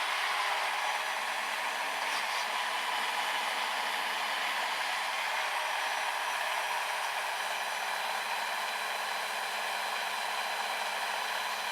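Brushed 550 electric motor of an RC snowblower running steadily: an even whir with faint steady tones over a rush of noise.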